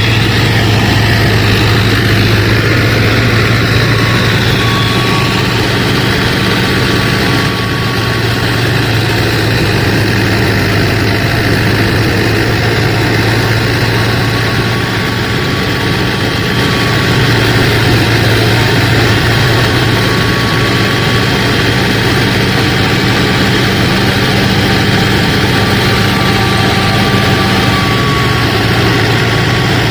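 Motor of a DIY miniature combine harvester running steadily, a continuous low hum with a faint higher whine that comes and goes.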